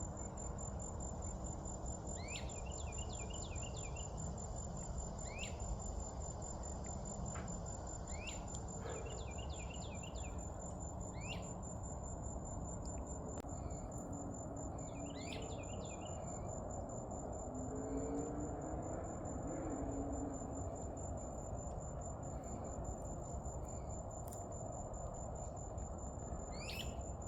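An insect trilling on one steady high pitch without a break. A bird calls a few times over it, each call a rising note followed by a quick run of short notes.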